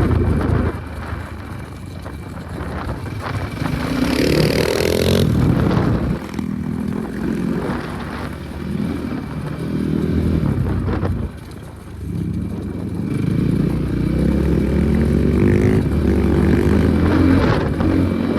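Enduro motorcycle engine being ridden, its revs repeatedly climbing and dropping. There is a sharp climb about four seconds in and a brief lull from about eleven to thirteen seconds.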